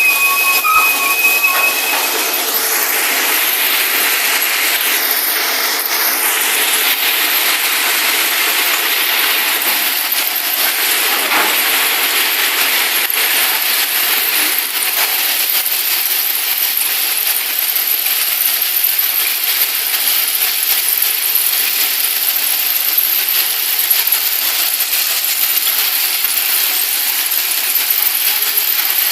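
Working ballast train giving a steady, loud metallic rattling and rushing noise, with a brief high squeal in the first two seconds.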